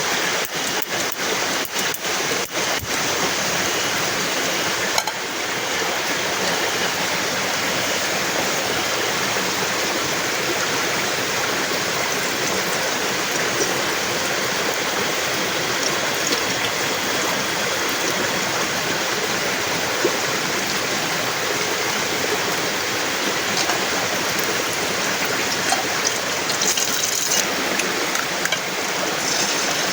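Heavy rain falling steadily, a dense even hiss, with an occasional sharp tap.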